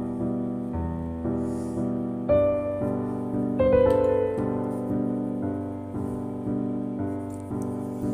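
Background piano music: a slow piece of notes and chords, each struck and then dying away.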